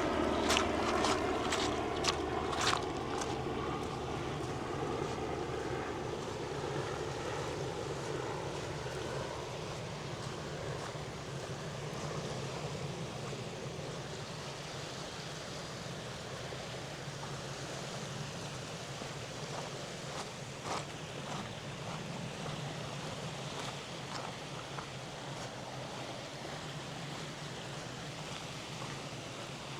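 Steady wash of lake waves and wind, with a few footsteps in the first seconds and a low engine drone fading away over the first several seconds.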